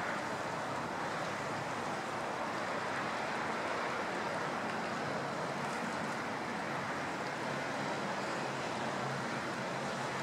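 Steady rushing of flowing stream water, an even noise that doesn't change.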